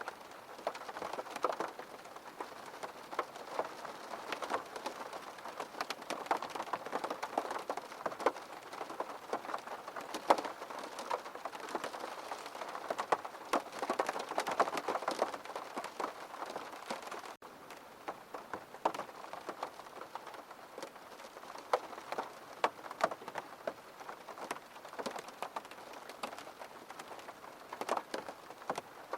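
Steady rain falling on a surface, many separate drop hits standing out from the even hiss of the rainfall. The sound drops out for an instant about seventeen seconds in, then carries on unchanged.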